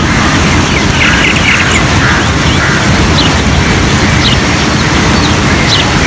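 Many birds giving short rising chirps, several a second, over a loud, steady rushing noise.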